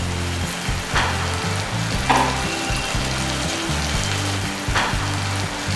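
Onion, capsicum and red chilli-garlic paste sizzling in hot oil in a kadhai, stirred with a spatula a few times. A music bed with a low bass line runs underneath.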